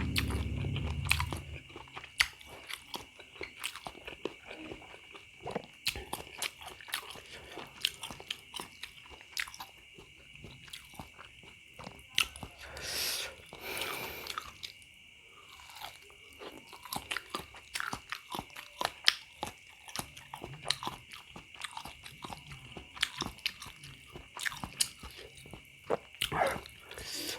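Close-up eating of spicy bakso meatballs: irregular wet chewing and crunching clicks from the mouth, with a longer breathy sound about halfway through.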